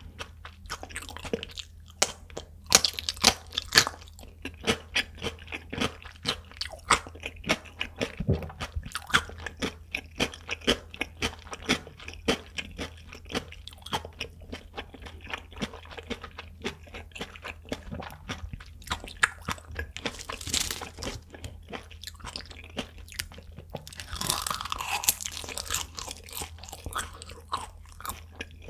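Close-miked crunching of a yellow pickled radish slice being chewed, with many crisp crunches in quick succession. The crunches thin out after about twenty seconds, with a longer rough mouth noise a few seconds later.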